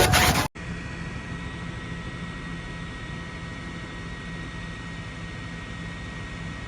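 A louder, busier sound with gliding tones cuts off sharply about half a second in. A steady, even rumbling noise with faint constant hum tones follows.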